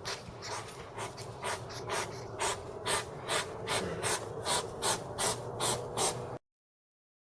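An animal's rapid, rhythmic breathing, about three breaths a second, cut off abruptly about six seconds in.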